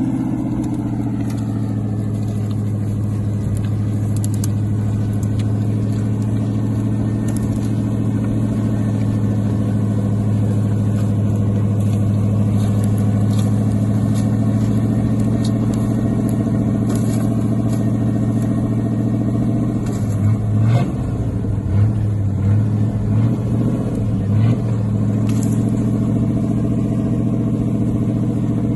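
Linn tractor's engine running steadily as the half-track drives along. For a few seconds past the middle it runs rougher and uneven before steadying again.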